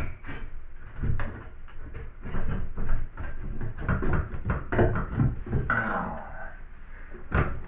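Irregular knocking and clattering of hard objects being handled and set down, with a brief scrape about halfway through.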